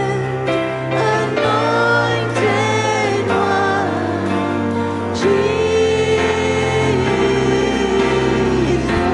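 Worship music with singing: voices holding long notes over sustained low chords.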